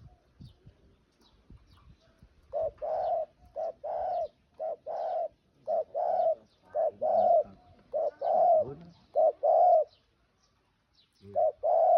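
Spotted dove cooing: a series of about seven paired coo phrases, a short note followed by a longer one. It pauses about ten seconds in and starts again near the end. Faint high chirps of small birds sound in the background.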